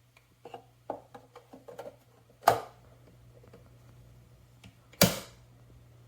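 A run of light clicks and taps, then two sharp, loud knocks about two and a half seconds apart, over a steady low hum.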